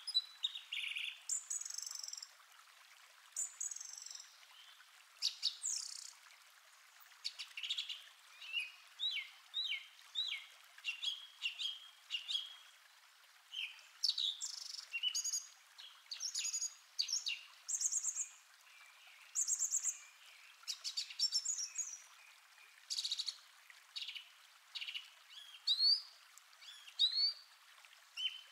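Songbirds singing: a busy string of short, high chirps and whistled notes from several birds.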